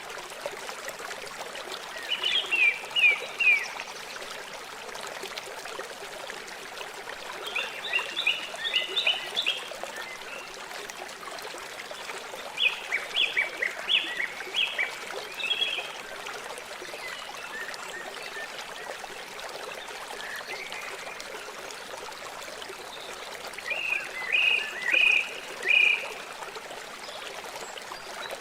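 River water flowing steadily. Short bursts of rapid high chirps break in four times and stand out above the water.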